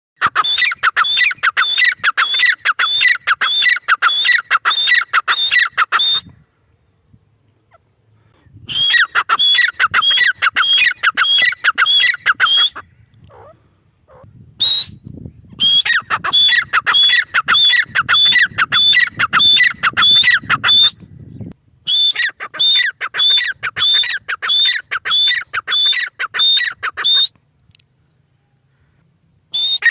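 Female grey francolin (teetar) calling: a rapid series of sharp, high, downward-sweeping notes, about two to three a second. The notes come in four long runs split by short silent pauses, with one single note in one of the pauses.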